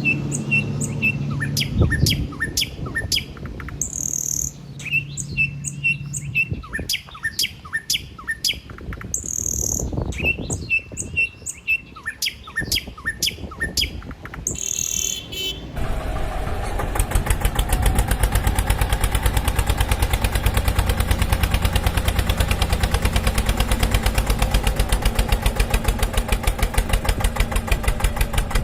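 Birdsong sound effect: the same run of chirps repeating about every five seconds. About halfway through it gives way to a tractor engine running steadily with a fast, even beat.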